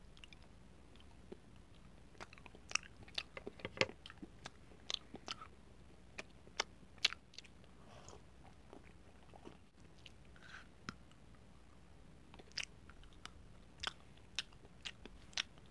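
Edible chocolate spoons being bitten and chewed close to the microphone: crisp snaps and crunches in irregular clusters, with a sparser stretch around the middle.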